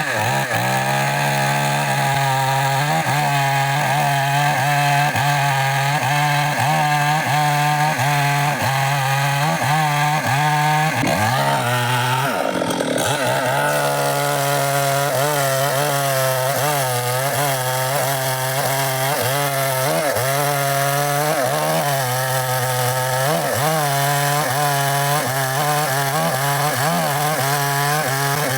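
Chainsaw engine running at high revs and cutting wood, its pitch dipping and recovering over and over as the chain bites into the wood under load. There is a longer, deeper drop a little before the middle.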